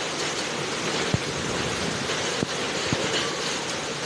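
Heavy rain and hail pouring down in a dense, steady hiss, with three sharp knocks of hailstones striking, the first about a second in and two more close together later.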